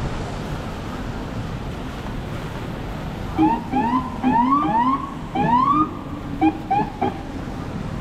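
Emergency vehicle siren giving a series of short rising whoops, the last three quick and clipped, over steady city traffic noise.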